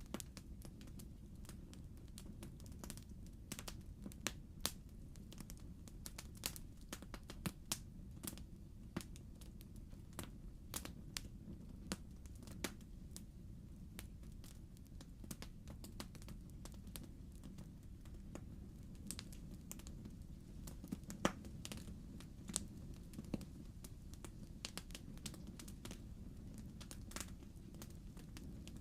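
Wood fire in a fireplace crackling: irregular sharp pops and snaps of burning logs over a low steady rush of the flames.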